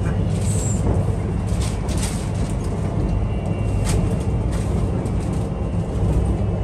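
Steady low rumble of an ETS electric inter-city train running, heard from inside the carriage, with a few faint clicks.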